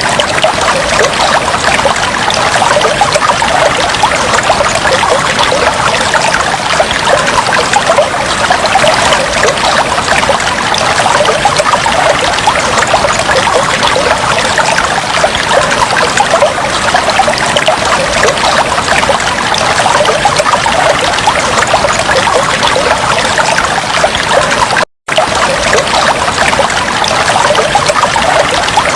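Fish tank water trickling and splashing steadily. There is a momentary break to silence about 25 seconds in.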